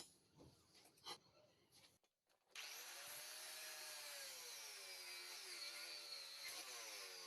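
A few light metal knocks, then an electric power tool starts about two and a half seconds in and runs steadily, its whine dipping and rising in pitch as the load on it changes.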